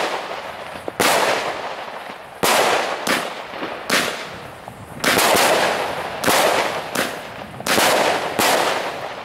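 Nico 'Dragon Blood' 36-shot fireworks cake firing: about nine sharp shots, roughly one a second, each followed by a hiss that fades.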